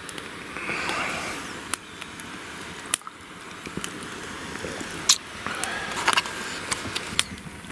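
Wood fire crackling, with scattered sharp pops, a few of them louder, over a low noisy hiss.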